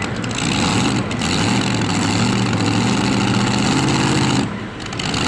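Light modified pulling tractor's engine running loud, its pitch climbing slightly, then dropping off sharply near the end.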